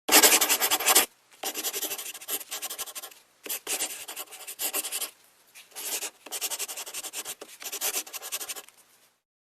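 Rough abrasive rubbing on a hard surface, in several bursts of about a second each, separated by short pauses.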